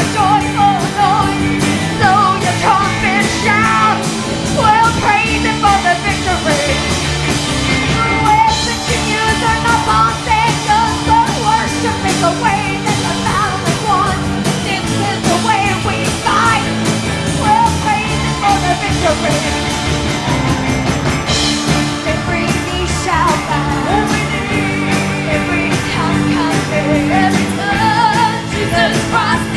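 Upbeat church worship music: singing over a band with held bass notes and a steady drum beat.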